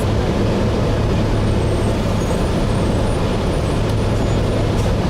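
Gillig Phantom transit bus with a Voith transmission running, heard from inside: a steady low engine drone under constant road and cabin noise.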